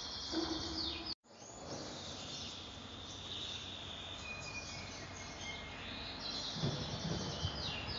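Small birds chirping repeatedly in the background, short falling calls over a steady hiss. The sound cuts out completely for a moment about a second in.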